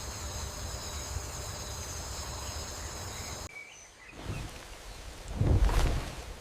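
Jungle ambience with insects chirring steadily in a high pitch over a low rumble; it cuts off abruptly about halfway through. A louder, deep rumbling swell rises and fades near the end.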